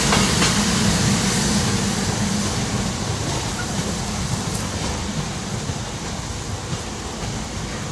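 SEPTA Regional Rail electric multiple-unit commuter train running away along the track, its wheel and rail noise steadily fading. A low hum dies away within the first few seconds.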